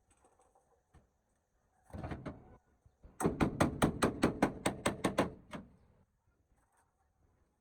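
A brief rasping noise, then a rapid run of about a dozen sharp knocks, roughly six a second, lasting about two seconds: workshop tool work during a truck restoration.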